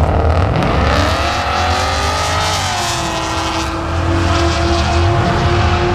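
Drag racing cars accelerating hard, side by side, on a street strip. The engine note climbs for about a second and a half, then drops and holds steady over a deep rumble.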